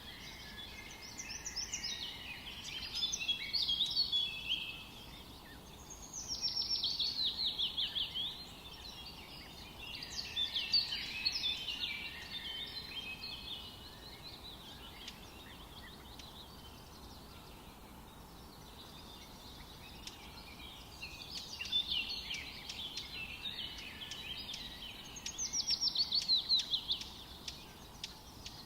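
Songbirds singing in a forest over a faint steady hiss. The song comes in short phrases, one of them a fast run of falling notes heard twice, near the start and near the end.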